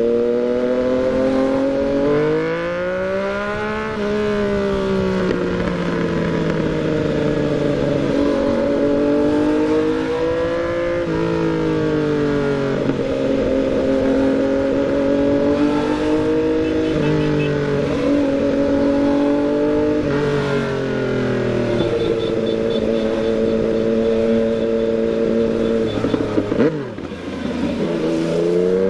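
Yamaha MT-09 motorcycle's three-cylinder engine under way, its pitch repeatedly rising as it pulls and dropping at each shift, with stretches held steady in between. About two seconds before the end it breaks off and dips briefly, then climbs again.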